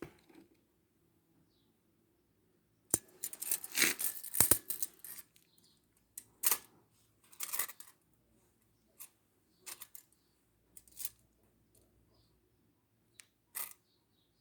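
Irregular handling noises: a burst of rustling and scraping a few seconds in, then scattered short clicks and rustles. No motor is running.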